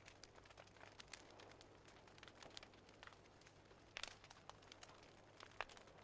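Faint wood fire crackling: irregular small pops and snaps, with a sharper pop about four seconds in and another near the end.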